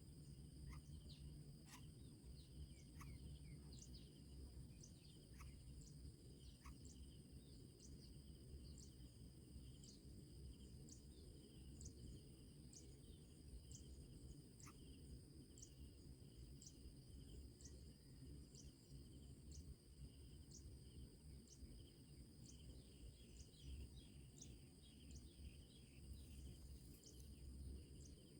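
Faint outdoor ambience of insects such as crickets trilling steadily at a high pitch. Short high chirps repeat about once a second over a low rumble.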